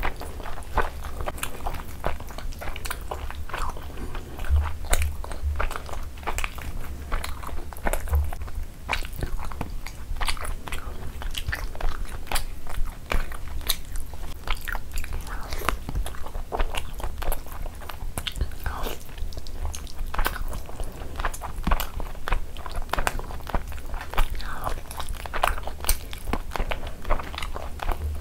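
Close-miked chewing and wet mouth sounds of someone eating chicken curry and rice by hand: a dense, uneven run of small smacks and clicks over a steady low hum.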